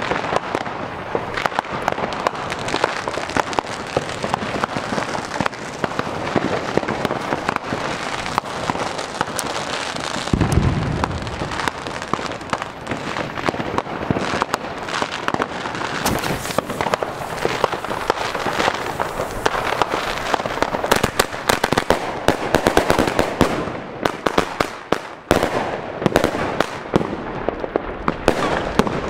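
New Year's Eve fireworks and firecrackers banging and crackling without a break, many going off at once all around. There is a deeper, longer thump about ten seconds in.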